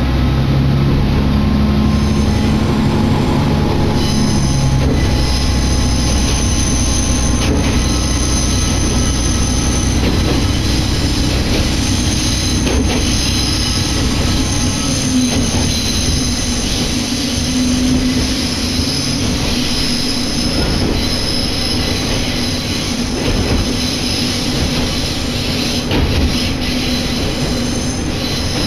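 Interior of an Isumi Railway diesel railcar under way. The diesel engine drones strongly for the first few seconds over the steady rumble of wheels on rail. From about four seconds in, high-pitched wheel flange squeal rings on and off.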